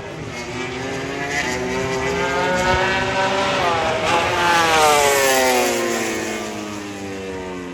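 A MotoGP racing motorcycle's four-cylinder engine going past at speed: the pitch climbs, drops sharply about four seconds in, then slides down as it is loudest and fades away.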